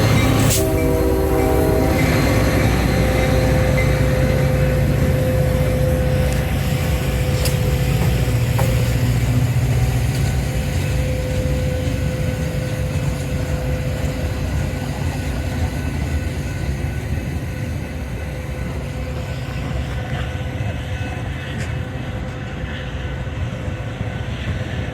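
Metra commuter train's multi-tone horn sounding and cutting off about two seconds in, then the diesel locomotive and rolling railcars running past, with wheel noise, slowly fading.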